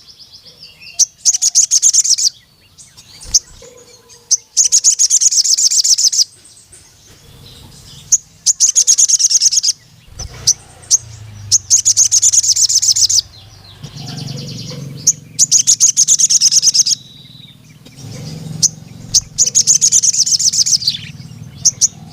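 A male sogon, the ruby-cheeked sunbird, singing. It gives six long, fast, high-pitched rattling trills, each lasting a second and a half to two seconds, with short sharp chirps in between.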